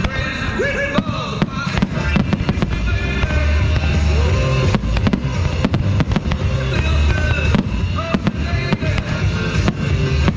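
Fireworks going off in rapid succession, dozens of sharp bangs and crackles with a low rumble, over loud music playing through speakers.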